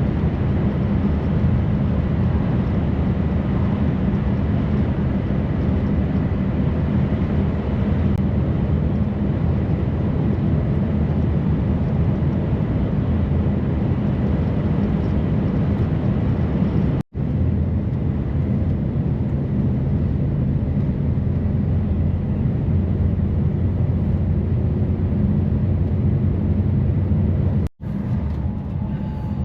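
Heavy truck driving at highway speed, heard from inside the cab: a steady drone of diesel engine and road noise. It breaks off for an instant twice in the second half.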